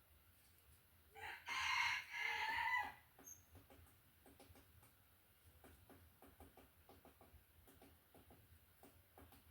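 A rooster crows once, about a second in, in two drawn-out parts lasting under two seconds. Faint scattered ticks follow.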